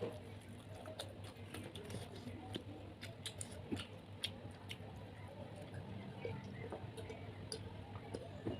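Faint, irregular small clicks and crackles of eating big prawns: chewing and shells being handled close to the microphone.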